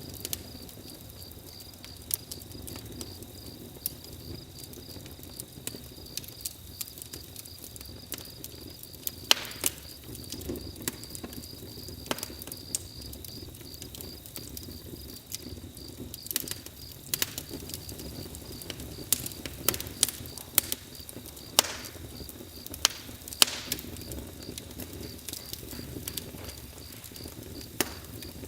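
Campfire burning, crackling with irregular sharp pops of varying loudness over a steady low rush of flame. A continuous high insect chirring, like crickets, runs underneath.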